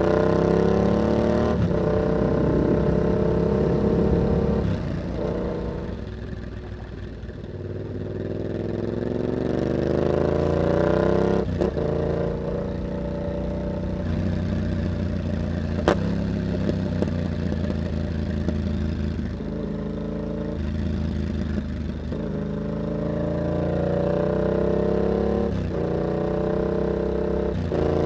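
Yamaha MT-07's 689 cc parallel-twin running through an aftermarket carbon exhaust with a dB killer, pulling hard through the gears: the pitch climbs and then drops sharply at each upshift. About five seconds in, the rider eases off, the exhaust goes quieter and lower, and then he gets back on the throttle.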